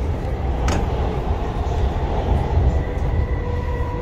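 Dubai Metro train running, heard inside the carriage: a steady low rumble with a faint steady whine, and one sharp click less than a second in.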